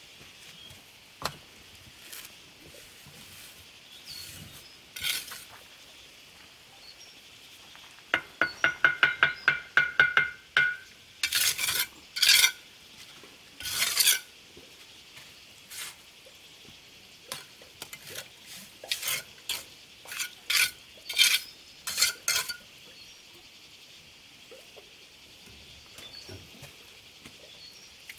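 Irregular scraping and tapping of a hard tool on a hard surface, with a quick run of ringing metallic taps about eight seconds in and louder scrapes after it.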